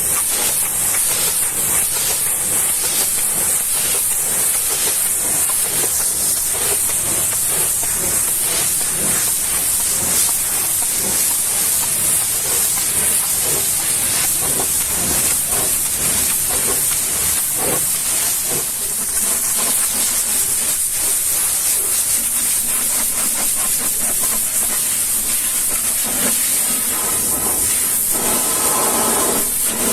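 High-pressure washer spraying water onto a vehicle, a steady loud hiss with no break. Near the end a steady hum joins it.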